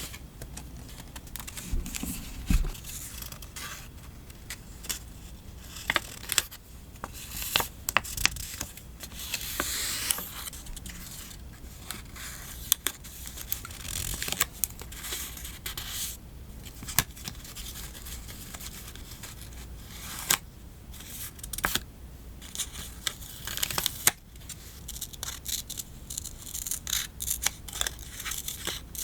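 Close-miked paper-craft handling: stickers peeled off their backing, paper cut with scissors, and sheets rustled and tapped down. Irregular crisp snips, peels and clicks come one after another.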